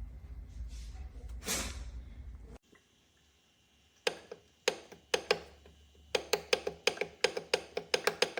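A low rumble with a brief swish, then after a sudden cut a run of sharp taps or clicks, about three a second, each with a short knocking ring.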